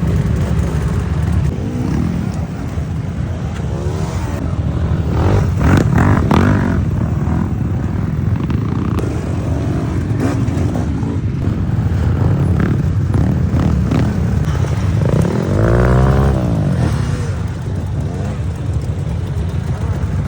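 Off-road motorcycle engine running under way over a steady low rumble. It revs up and eases off twice: about five seconds in and again about sixteen seconds in.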